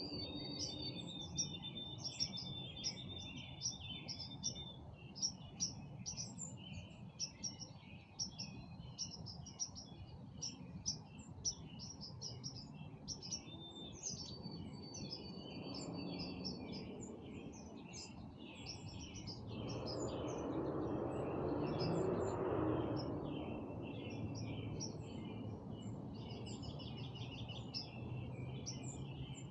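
Several birds chirping and singing together in an evening chorus: rapid short chirps with a few held whistled notes. A low rushing noise swells up about two-thirds of the way through and fades a few seconds later.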